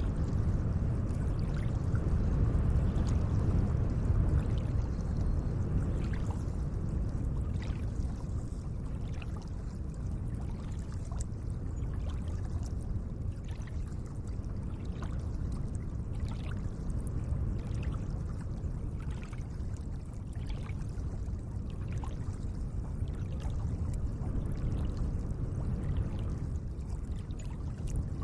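Gentle lake water lapping and trickling: a steady, low water rush with faint small splashes or drips about once a second.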